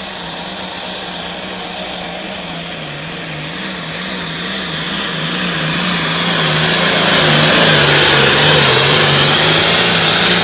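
Limited Pro Stock pulling tractor's diesel engine running flat out under load, growing louder over several seconds. The engine note wavers rapidly up and down with a rising rushing hiss on top.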